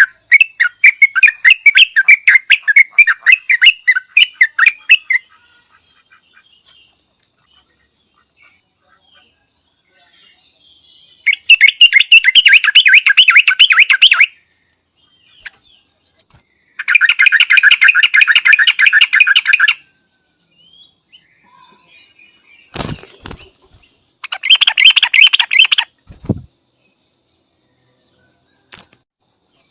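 Yellow-vented bulbul chattering in four bursts of rapid notes, each lasting about two to five seconds with pauses between. Two dull thumps fall between the last bursts.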